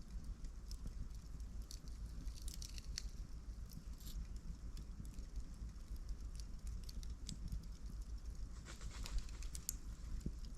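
Wood campfire crackling, with scattered sharp pops and small flurries of crackles about two and a half seconds in and again near the end, over a low steady rumble.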